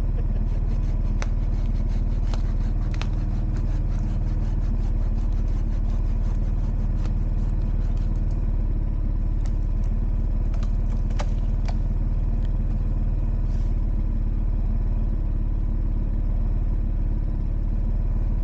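An engine running at a steady speed, with scattered clicks and clatter over it.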